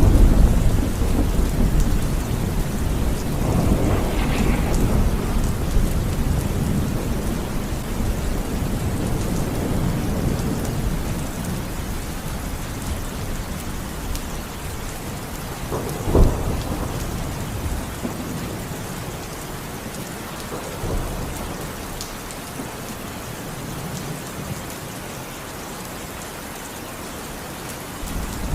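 Steady rain with rolling thunder: a heavy rumble at the start that fades away over about ten seconds, a sharp thunderclap about sixteen seconds in, and a smaller crack a few seconds later, with the rumble swelling again near the end.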